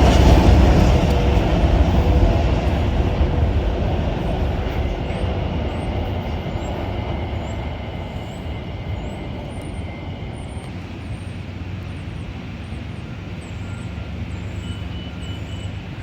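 Metro-North train rumbling past and fading away, its sound dying down steadily as it leaves the station.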